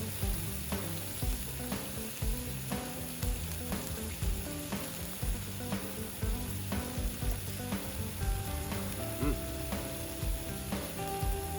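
Meat sizzling and frying on a hot iron steak plate.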